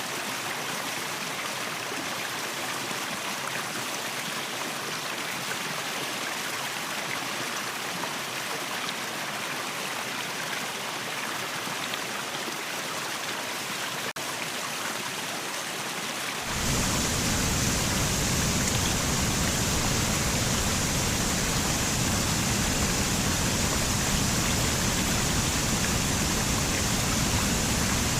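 Steady rushing of water falling at a waterfall. About 16 seconds in, the sound cuts abruptly to a louder, deeper rush.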